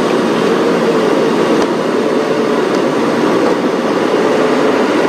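Safari game-drive vehicle driving along a rough track: a steady engine hum under continuous road and rattle noise.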